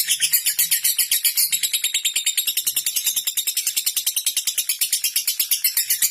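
Lovebird chattering in the rapid, typing-like 'ngetik' style: an even stream of high, sharp ticks at about a dozen a second, used as a lure call to set other lovebirds chattering.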